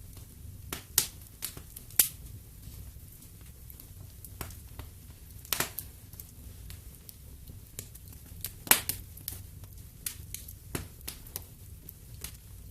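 Wood fire in a fireplace crackling: irregular sharp pops and snaps over a low steady rumble, with a few louder snaps, the loudest about nine seconds in.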